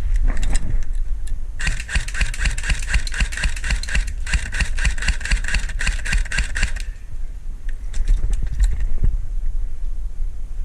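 Airsoft electric gun firing a long full-auto string, a rapid rattle of shots over a motor whine for about five seconds, starting a second and a half in. Wind and gear rumble on the body-worn microphone throughout, with scattered clicks.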